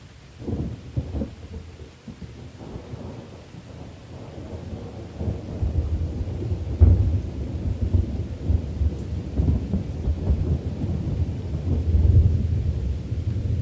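Thunder rumbling over steady rain: a crackling clap about half a second in, then a deep rolling rumble that builds and peaks twice, near the middle and near the end.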